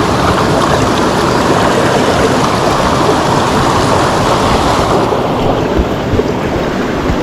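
Mountain stream water rushing steadily over rocks, a loud continuous wash; the brighter hiss dulls about five seconds in.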